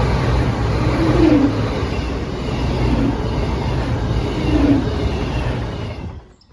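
A Voyager diesel multiple unit passing through the station at speed: loud rushing rail and wheel noise over a steady low diesel engine hum. The sound cuts off abruptly about six seconds in.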